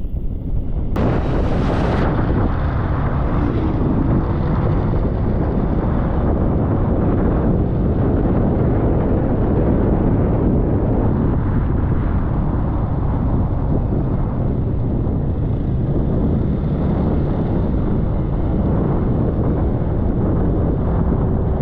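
Motor scooter ride heard from an action camera on the bike: steady rumble of the engine and road under heavy wind buffeting on the microphone, with a brief sharper rush of hiss about a second in.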